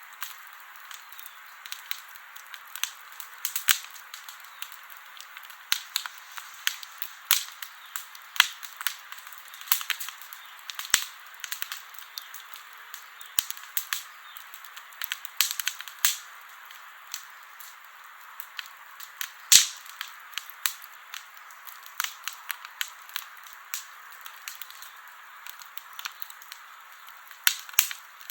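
Wood campfire crackling: irregular sharp pops and snaps over a soft steady hiss of burning, with one louder pop about two-thirds of the way through.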